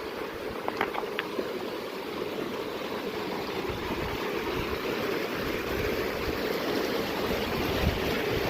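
Flowing water of a mountain stream rushing steadily, growing slightly louder, with a few short high notes about a second in and low wind buffeting on the microphone.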